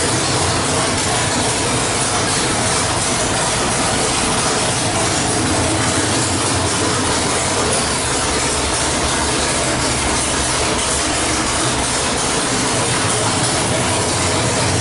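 427 cubic-inch stroker small-block Chevrolet V8 running on an engine dyno, loud and at a steady speed.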